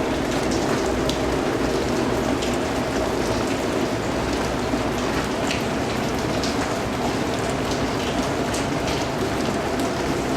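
Steady, continuous rainfall, with many individual drops ticking sharply over a dense even hiss.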